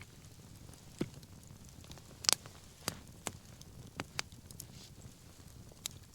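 Wood fire crackling: sharp, irregular pops, about seven in six seconds, the loudest a little over two seconds in, over a faint low rumble.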